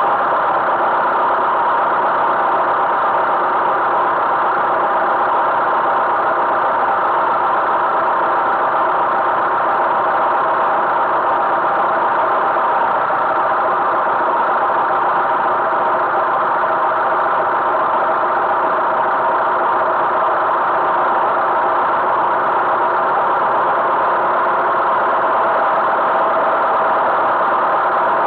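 Tractor engine running at a steady speed, an even drone with no change in pitch or level.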